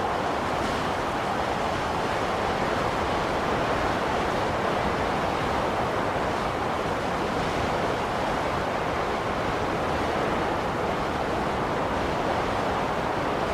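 Blizzard wind blowing as a steady, even rush of noise, with no gusts or breaks.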